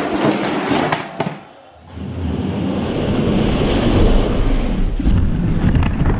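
Die-cast toy monster trucks rolling down a plastic race track: a steady rolling rumble, with a few sharp clacks about a second in.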